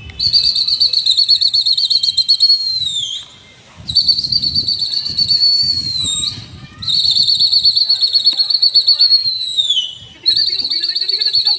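Shrill whistle blown in four long warbling blasts of about three seconds each, every blast trailing off with a falling pitch: a pigeon keeper whistling to his flock in the air. Low wind rumble underneath.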